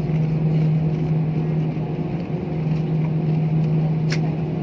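Aircraft engines running steadily inside the cabin after touchdown, a constant drone with a strong low hum. A single short click about four seconds in.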